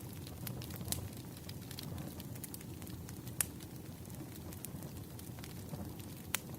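Wood fire crackling: a steady low rush with scattered sharp pops, the loudest about three and a half seconds in.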